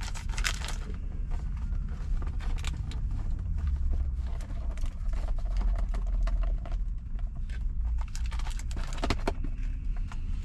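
Steady low engine rumble, as of a truck idling, under scattered clicks and rustles of hands handling food and plastic containers.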